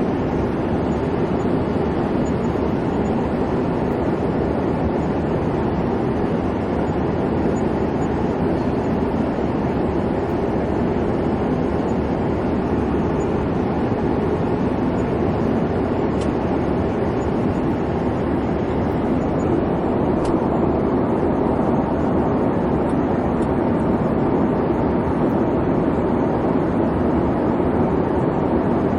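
Airliner cabin noise: the steady low rumble of the engines and airflow heard from inside the cabin, with a couple of faint ticks.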